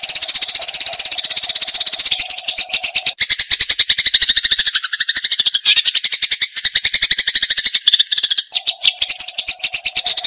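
Eurasian tree sparrows fighting: a loud, unbroken, rapid chatter of sharp chirps, many per second. From about two seconds in to about eight and a half seconds the chatter reaches lower and sounds fuller.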